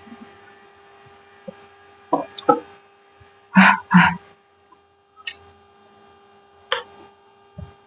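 Eating sounds: scattered short mouth noises and clicks while eating egg fried rice, with two loud ones close together about halfway through. A steady faint electrical hum runs underneath.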